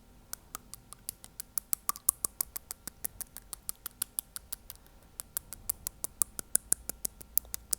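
A fingernail tapping on front teeth, quick sharp clicks about six a second, a single nail doing the tapping.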